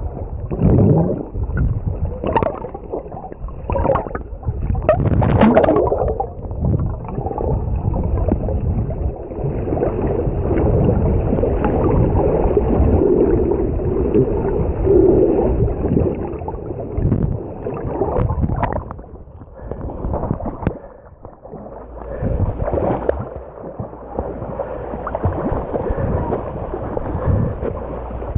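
Muffled sea water gurgling and sloshing around the microphone, in irregular surges, as when a camera is dipped at or just under the sea surface.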